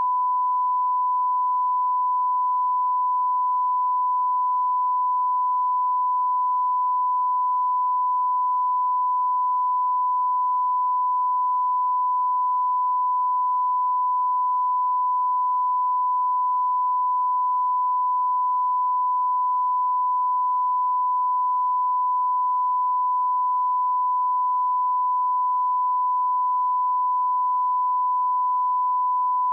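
A single high-pitched electronic sine tone, held at one steady pitch and level without a break.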